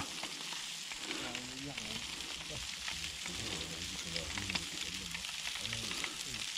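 Pigeon fillets sizzling on a grill over a wood fire: a steady hiss with small crackles throughout.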